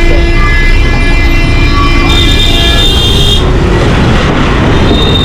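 Loud city bus and road traffic rumbling, with long, steady high-pitched tones over it, one about two seconds in and another near the end.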